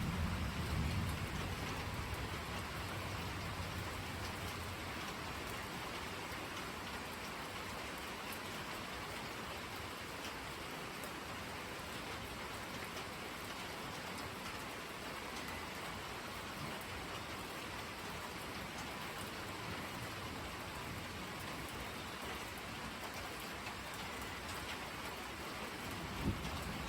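Steady rain falling on surfaces. The low rumble of thunder dies away over the first couple of seconds, and another deep rumble of thunder starts just before the end.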